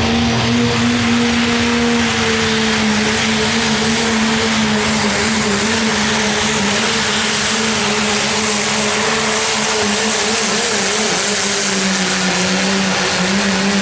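Modified diesel pickup truck's engine held at full throttle while pulling the sled, steady and loud, its pitch sagging slowly as the load builds.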